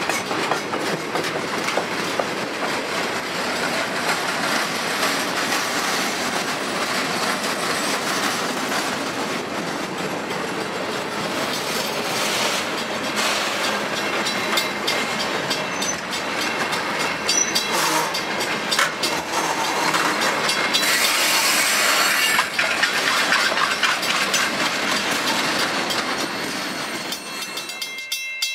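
Freight cars rolling past at close range: steady steel-wheel-on-rail noise with clickety-clack over the rail joints. The noise grows harsher and higher for a few seconds about three-quarters through, then falls away near the end as the last car passes.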